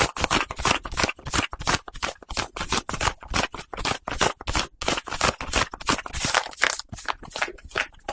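Fast, close-up scratching and rubbing on the fabric of a hat, in quick uneven strokes of about four a second.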